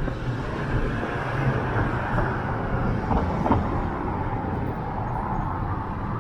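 Steady city street traffic: vehicle engines rumbling with a constant wash of road noise.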